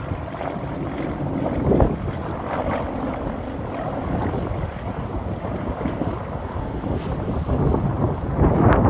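Highway traffic with semi-trucks passing, heard as a steady noise of engines and tyres with wind buffeting the microphone; it swells briefly about two seconds in and again near the end.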